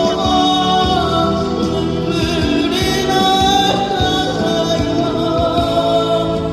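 A Korean ballad sung over backing accompaniment, the voice carrying the melody steadily without a pause.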